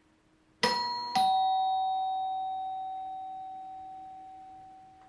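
Doorbell chime ringing ding-dong: a higher note struck, then a lower one about half a second later that rings on and fades away slowly.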